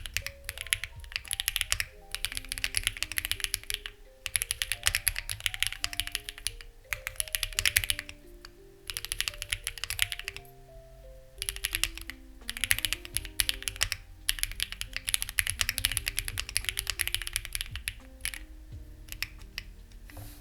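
Fast typing on a Lucky65 v2 mechanical keyboard with stock, unlubricated HMX Ziwei switches and clone CMK keycaps: runs of key clacks broken by short pauses. Soft background music with held notes plays underneath.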